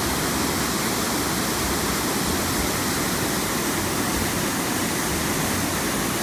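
A waterfall's water rushing steadily: the continuous noise of Fall Creek Falls.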